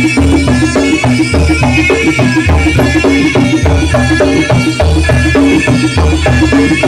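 Live jaranan (kuda lumping) ensemble music: drums and tuned gong-chime percussion playing a fast, steady rhythm, with a deep low beat recurring about once a second.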